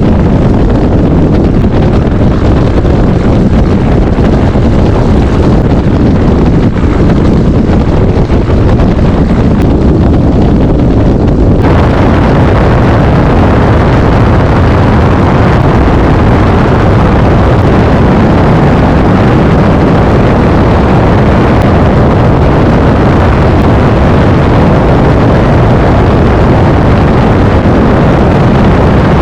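Cirrus SR20's piston engine and propeller running loud and steady. About twelve seconds in the sound suddenly becomes brighter and fuller and then holds steady.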